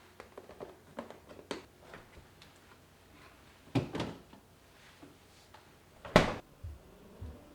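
Household handling sounds: scattered light clicks, then two sharp knocks close together near the middle and a louder knock about six seconds in.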